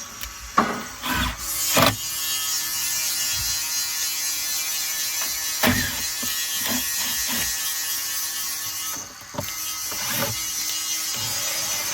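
Cordless impact driver running, its hammer rattling steadily as it drives a screw, after a few knocks at the start; it stops briefly and then runs again.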